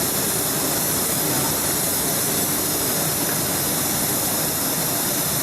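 A steady, even hiss with no clear rhythm.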